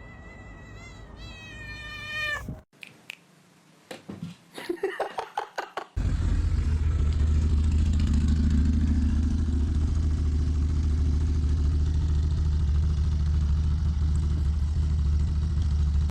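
A cat meowing, one drawn-out call that rises at the end. After a break come short clicks and a few brief cat cries. From about six seconds in, a loud steady low hum, of a source that cannot be identified, takes over and runs to the end.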